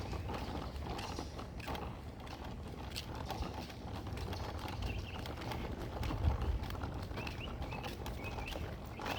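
Footsteps on a paved street at walking pace, irregular knocks over a steady low rumble.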